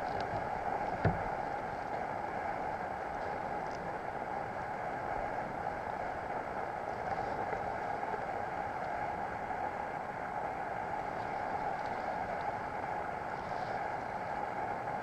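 Steady rush of water along a kayak's hull, with a single knock about a second in.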